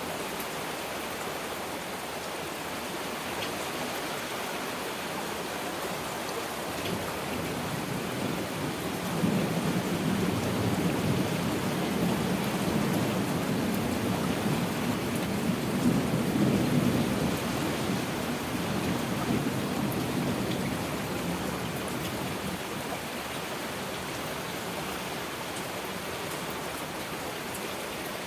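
Heavy rain falling steadily, with a long, low rumble of thunder. The thunder swells about a quarter of the way in, peaks twice and fades away over some fifteen seconds.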